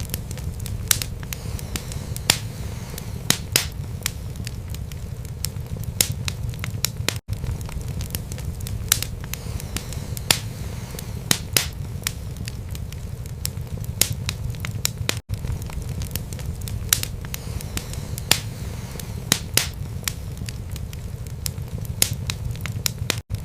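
Wood fire burning in a fireplace: a steady low rumble of flames with frequent sharp crackles and pops at irregular intervals. The sound cuts out completely for an instant about every eight seconds.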